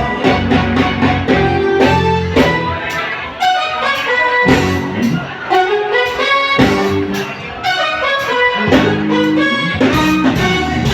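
Instrumental break of a band playing a pop song: horn section over bass and a steady drum beat, with no singing.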